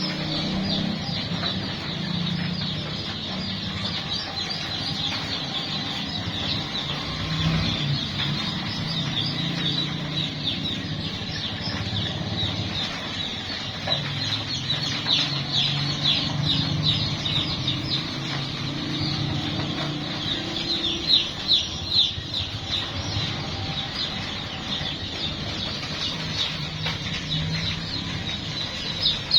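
A crowd of young chicks peeping continuously, many short, high cheeps overlapping, with a lower steady sound underneath.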